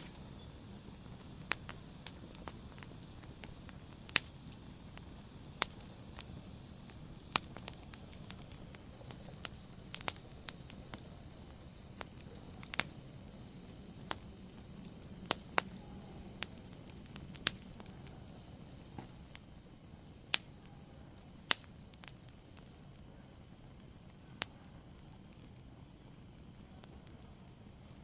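Wood fire in a fireplace crackling: irregular sharp pops over a soft, steady low rumble of burning. The pops thin out in the last few seconds.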